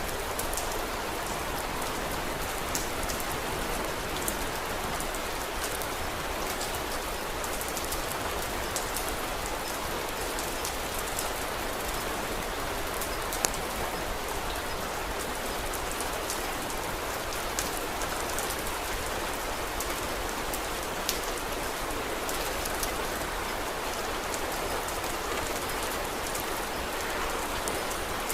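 Steady rain falling on a surface, an even hiss with scattered sharp little ticks and pops through it.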